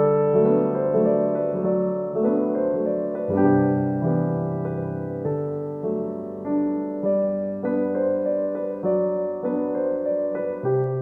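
Background piano music: slow, gentle notes and chords, each struck and fading.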